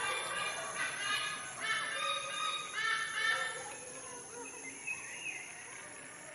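A series of short, steady-pitched animal calls, each about half a second long, over a constant high whine; the calls stop about three and a half seconds in, leaving fainter, scattered sounds.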